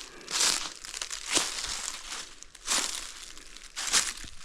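Footsteps crunching through dry leaf litter on the forest floor, four steps at a slow walking pace.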